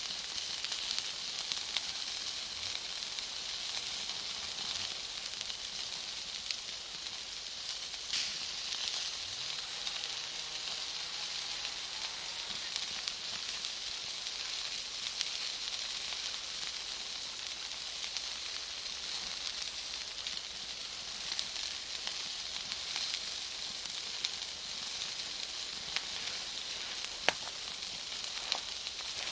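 Bonfire of firewood and Iwate cut charcoal burning: a steady sizzling hiss with scattered sharp crackles and pops, a few louder ones near the end.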